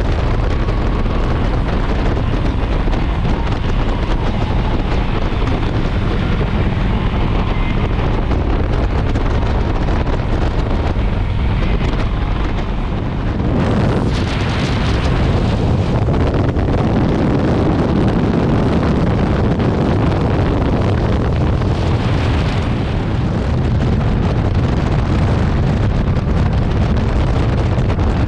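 Loud, steady wind buffeting the microphone, with a brighter, hissier gust about halfway through and a smaller one later on.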